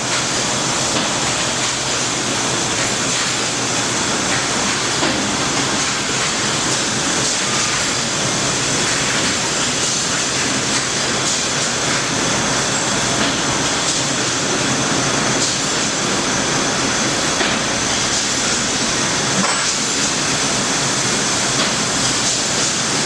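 Haas SL-20 CNC lathe running: a steady, loud rushing hiss with no beat or clear pitch.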